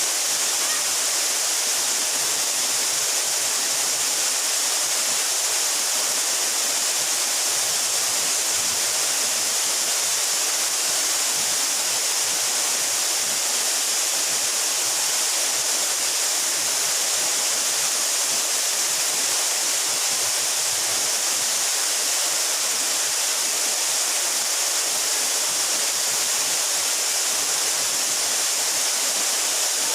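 Steady, unbroken rush of falling water from a waterfall, a hiss that is strongest in the high range.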